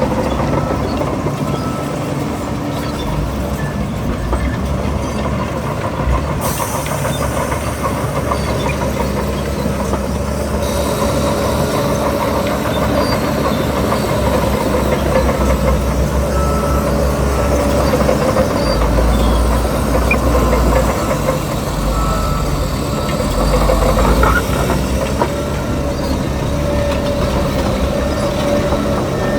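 Diesel engine of a crawler bulldozer running steadily under work, loud and continuous, with a low rumble.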